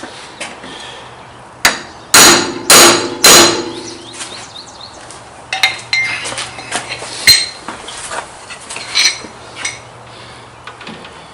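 Three sharp metallic hammer taps about half a second apart, each ringing briefly, followed by a few lighter metal clicks and knocks.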